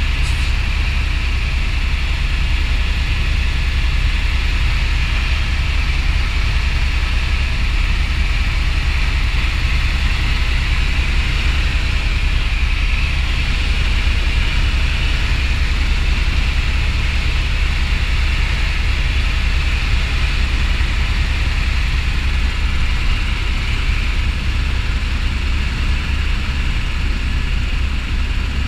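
Helicopter turbine and rotor noise running steadily and loudly throughout, with a heavy low rumble.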